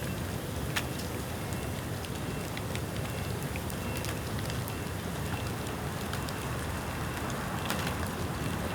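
Rain-wet bamboo burning in an open bonfire: a steady rushing noise broken by scattered sharp crackles and pops, one louder pop about a second in and a small cluster near the end.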